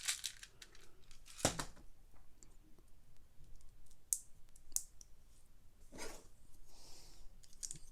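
Plastic LEGO bricks clicking and tapping as they are handled and pressed together, with a loud click about a second and a half in and a few lighter clicks and rustles after.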